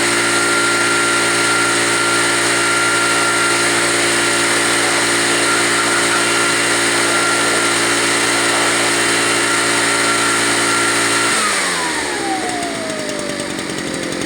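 Tanaka TBL 500 backpack leaf blower's two-stroke engine running steadily at full throttle; about eleven seconds in the throttle is let off and the engine note falls away to a lower idle.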